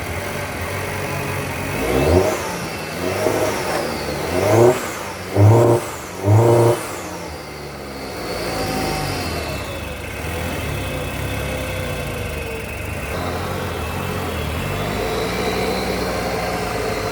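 2020 Holden Equinox engine idling, then revved in about five quick blips, the last three loudest, each rising and falling in pitch, before it settles back to a steady idle. This is a wrecker's engine test of the used engine.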